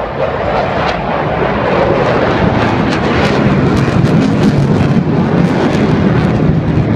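Loud jet noise from F-16C fighter jets flying past at high power, a dense rumble with crackling that sets in about two and a half seconds in.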